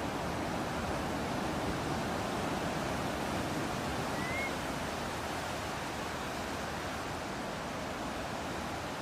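Steady, even wash of ocean surf and breeze, with a single short rising bird chirp about four seconds in.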